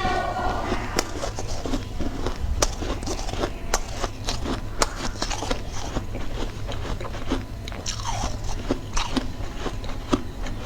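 Close-up biting and chewing of ice: a dense run of irregular crisp crunches, with a few brief squeaks as the ice is bitten.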